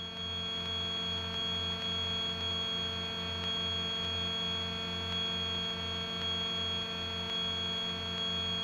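Twin-engine Grumman GA-7 Cougar's engines and propellers droning steadily in the climb, heard inside the cockpit. A high steady whine sits over the drone, and the low part throbs a few times a second as the two engines beat against each other slightly out of sync.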